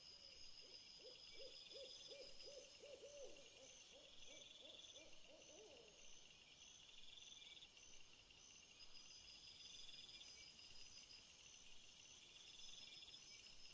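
Faint outdoor insect chorus of steady high chirps and repeating trills, with a series of about a dozen short, low hooting notes over the first six seconds.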